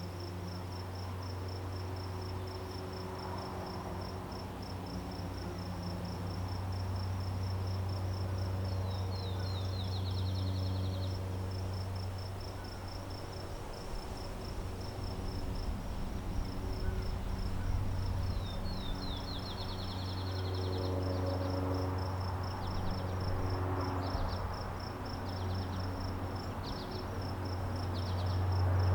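Nighttime-style insect chorus: a steady, fast, high-pitched pulsing chirp, with a second, slightly lower run of quick chirps breaking in twice, over a constant low hum.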